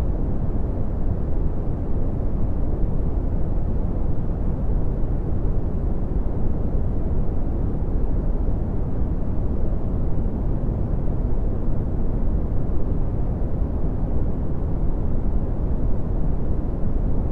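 Red (Brownian) noise: a steady, even rumbling hiss weighted heavily toward the low end, with little above about 1 kHz.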